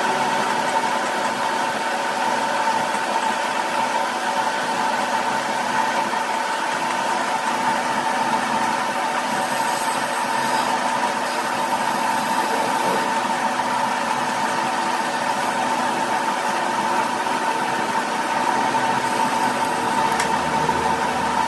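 A workshop machine running steadily, giving a constant hum with a strong steady tone over a noisy background.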